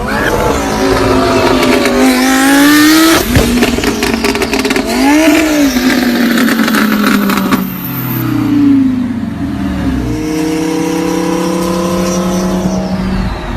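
Car engine and exhaust revving loudly, the pitch climbing and dropping several times, then settling into a steadier drone over the last few seconds.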